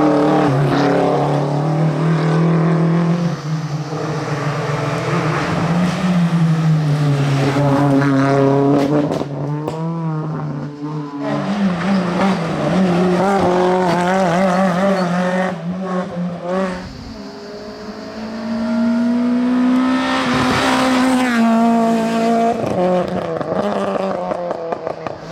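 Rally car engine at full throttle on a closed-road stage, its pitch repeatedly climbing and dropping as it shifts through the gears, with several brief lifts off the throttle.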